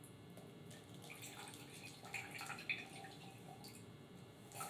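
Lemon juice dripping from a hand-held lemon squeezer into a small glass mason jar, faint, with a light click near the end.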